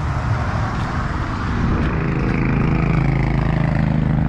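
A motor vehicle engine running nearby with road noise; a steady engine hum comes in about halfway through and grows a little louder.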